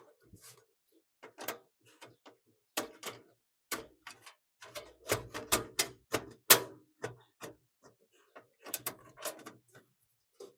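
Irregular clicks, clacks and knocks of computer hardware being handled and fitted during a desktop PC build, the sharpest about six and a half seconds in.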